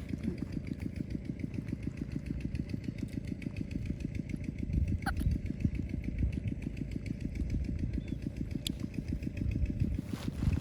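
A small engine running steadily with a rapid, even pulsing, getting a little louder about five seconds in.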